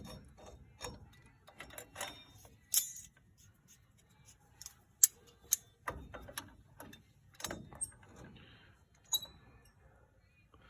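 Irregular metallic clicks and taps of Vise-Grip locking pliers and drum brake springs and shoes being worked against each other while an adjuster spring is stretched into place, with one sharper clack about five seconds in.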